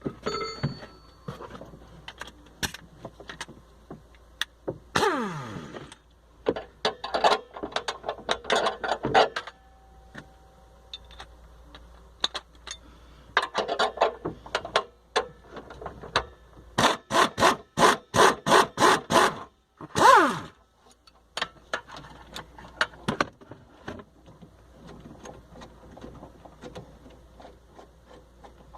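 Hand tools working on car fittings while a CNG tank is being unbolted: scattered metal clicks, knocks and scrapes, a short whir falling in pitch about five seconds in, and a quick run of ratchet-like clicks, about four a second, past the middle.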